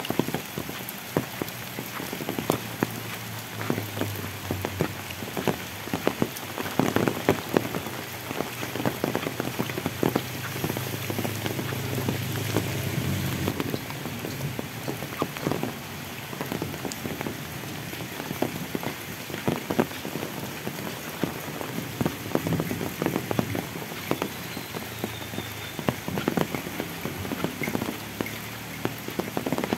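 Heavy rain falling on an asphalt road and thick tropical foliage: a steady hiss with many close drops ticking sharply. A low steady hum sits underneath for the first half and stops about halfway through.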